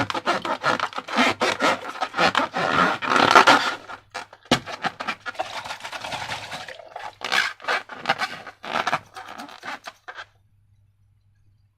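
Sticky slime being squished and worked by hand: a dense run of wet crackles, clicks and smacks with rubbing in between, stopping about ten seconds in.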